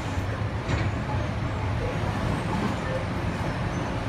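Interior running noise of a Sydney Trains Tangara electric carriage in motion: a steady low rumble of wheels and running gear on the track. There is a brief click about two-thirds of a second in.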